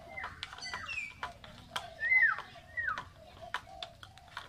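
Several birds calling: short chirps and falling whistles, with a loud arched whistle about two seconds in, and a scatter of sharp clicks.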